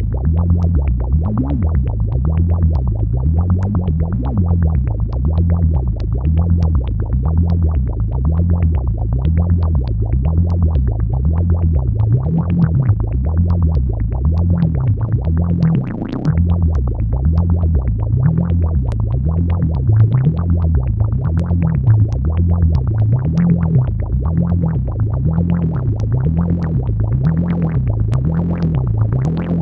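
AnalogFX SER-2020 analog synthesizer, a rebuild of the Synton Syrinx, playing a repeating low bass pattern that steps between pitches in an even rhythm. Short, clicky, percussive notes sound above it.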